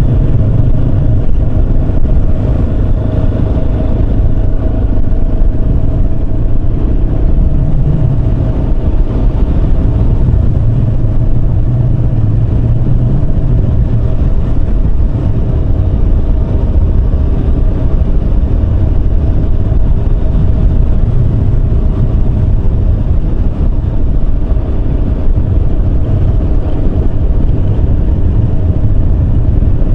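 Yamaha Serow 250's single-cylinder four-stroke engine running steadily at cruising speed, under a dense low rumble of riding noise, with no marked changes in pitch.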